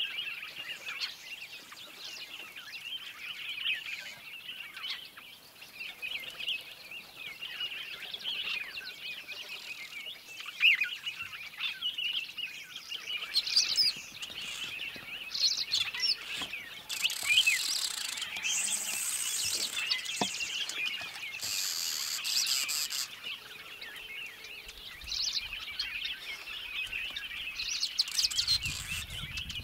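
Small birds chirping and twittering continuously in a busy chorus of short, high calls. A little past the middle come two brief bursts of high hiss.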